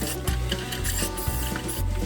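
Hand tool rasping against the metal of an old tackle box in short repeated strokes, with background music underneath.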